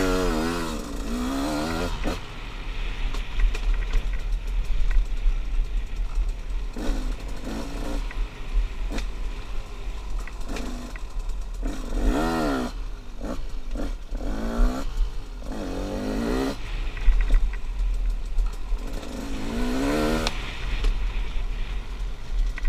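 A 2016 KTM 200 XCW's two-stroke single-cylinder engine being ridden on and off the throttle, its pitch climbing and falling in about six revving bursts between lower stretches. Low wind rumble sits on the helmet microphone throughout.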